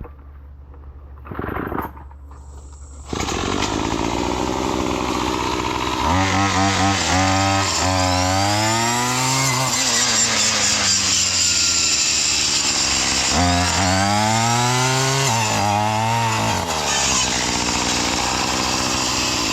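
Gas weed trimmer engine fitted with a chainsaw-tooth brush cutter blade: it idles, then opens up to full throttle about three seconds in. Twice the engine pitch sags and climbs back as the spinning blade bites into a small tree and cuts through.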